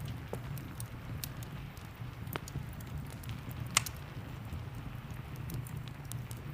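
Wood fire crackling with scattered sharp snaps, one louder pop just past halfway, over a steady rumble of rain.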